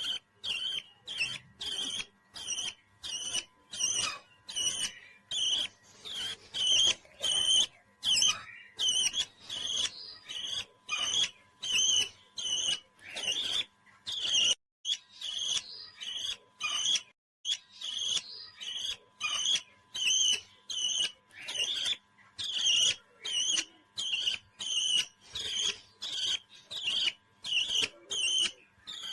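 A parrot chirping in a long run of short, high calls, about two a second, with a couple of brief pauses.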